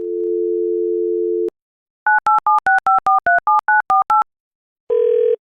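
Telephone dial tone for about a second and a half, then eleven quick touch-tone keypad beeps as a phone number is dialled, then the British double-burst ringing tone starting near the end as the line rings.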